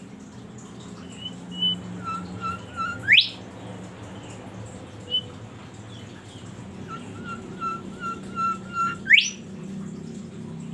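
A songbird singing two whistled phrases. Each is a quick run of short, even notes ending in a loud, fast rising whistle. A steady low hum runs beneath.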